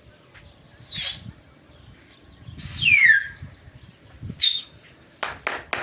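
Bird calls: two short high chirps and, between them, one whistle that falls steeply in pitch, followed near the end by three quick sharp sounds.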